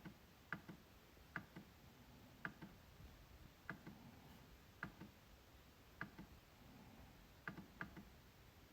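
MacBook trackpad being clicked about once a second at an uneven pace, each click a sharp press followed by a softer release click. The clicks are quiet.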